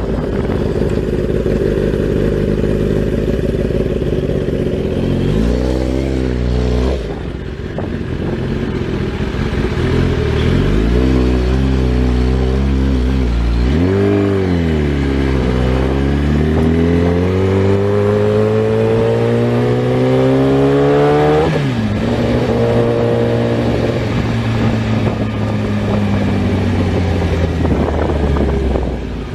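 Motorcycle engine accelerating through the gears. The revs climb and then drop sharply at each shift, several times, with one long rise in revs before a shift a little past twenty seconds and steadier running after it.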